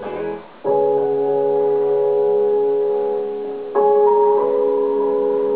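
Music from a television commercial: sustained keyboard chords that come in under a second in and change to a new chord near four seconds in.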